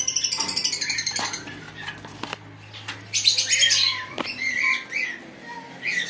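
Caged pet birds chirping and chattering: a fast, high rattling trill over the first second and a half, then scattered high chirps from about three seconds in.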